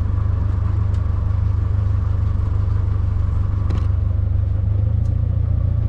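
Ice cream truck's engine running steadily at idle, a low, even drone, with a few faint clicks over it.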